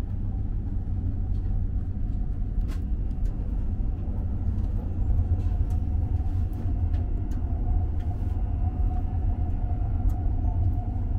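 Steady low rumble of a Tohoku Shinkansen bullet train running, heard inside the passenger cabin, with a faint steady whine and a few light clicks.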